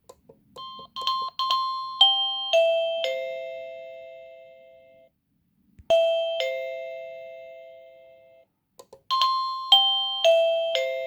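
Electronic doorbell chime ringing: a descending run of clear bell-like notes, then a two-note ding-dong, then the descending run again, each note ringing out and fading. A few short clicks come just before the first notes.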